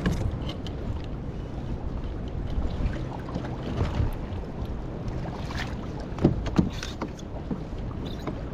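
Wind buffeting the microphone over water sloshing around a small kayak in choppy sea, with scattered sharp splashes or knocks, two of them louder about six seconds in.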